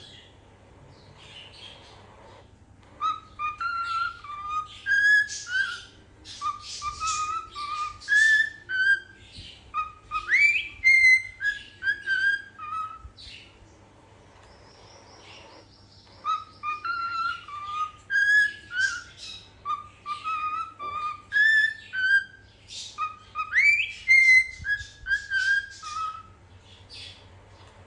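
Cockatiel whistling a melodic tune of short pitched notes with a quick upward swoop. It sings the same phrase twice, with a pause of a few seconds between.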